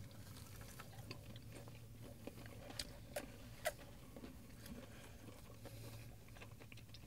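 Faint mouth sounds of people chewing breaded dry-rub chicken wings, with a few small crunchy clicks, over a faint steady low hum.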